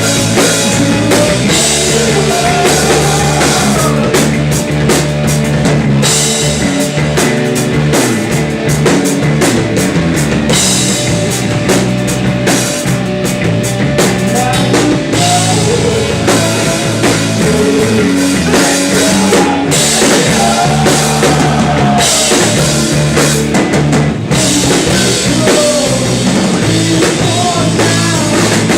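Rock band playing live, with drum kit and cymbals prominent over the band.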